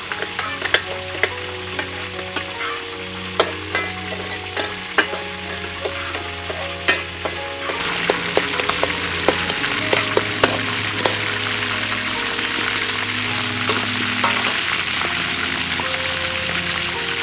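Metal spatula scraping and clicking against a steel wok as shrimp paste and garlic are stirred in hot oil. About halfway through this gives way to a steady sizzle of chicken drumsticks frying in oil.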